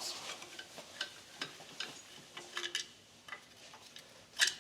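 Scattered small metallic clicks and taps of an air cleaner being unfastened and taken off a 1950 REO engine, with one sharper clack near the end.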